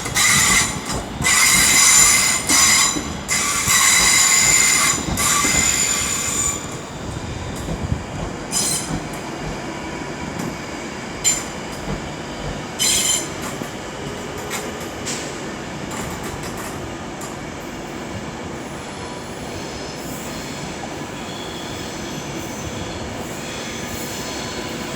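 Electric passenger train's wheels squealing loudly on the track at slow speed. High-pitched squealing for the first six seconds or so, then a few short squeals, then a steady low rumble as the train rolls on.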